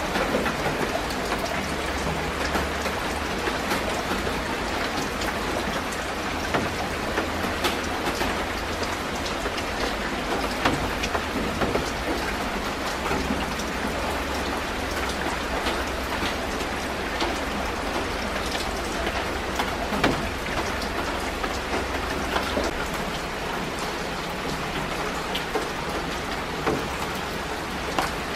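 Steady rain falling on garden leaves and plants, with many individual drops ticking over a continuous hiss. A low steady rumble sits underneath.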